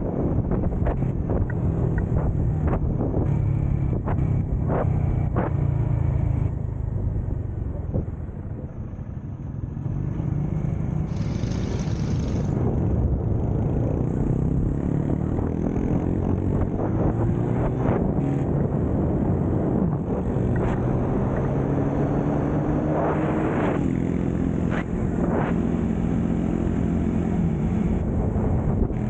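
Small motorcycle engine running on the move. It eases off and goes quieter about a third of the way in, then picks up again with the pitch rising as it accelerates.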